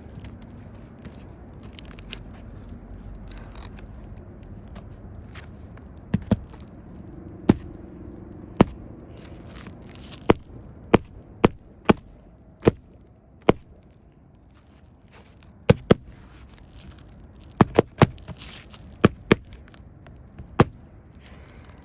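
Hammer driving roofing nails into asphalt shingles: about eighteen sharp strikes at an uneven pace, some in quick pairs, several with a brief metallic ring. Low rustling and scraping of handling comes before the first strike, about six seconds in.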